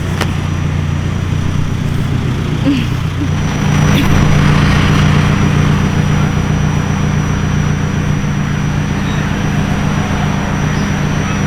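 A vehicle's engine runs steadily with a low hum and road or wind noise. About three and a half seconds in, the engine note shifts and grows a little louder.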